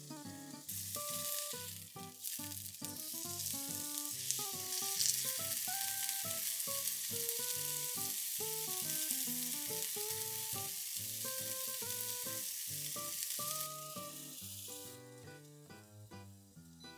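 A hamburger patty and egg frying in oil in a nonstick pan: a loud, steady sizzle that starts about a second in and dies down near the end.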